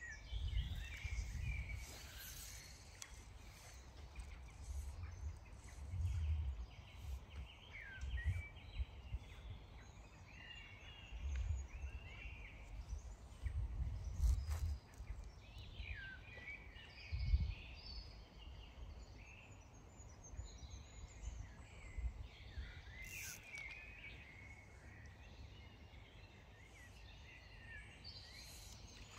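Birds chirping and calling in short, scattered phrases, with intermittent low rumbles underneath.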